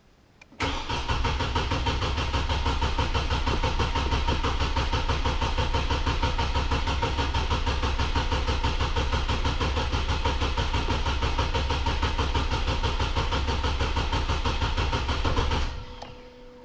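Truck engine cranking on its starter for about fifteen seconds in a fast, even rhythm without catching, then cutting off suddenly. A faint steady tone lingers briefly afterwards.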